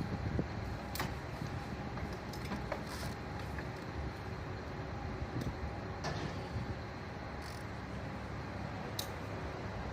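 A vehicle engine running steadily as a low rumble, with scattered sharp clicks and knocks every second or so.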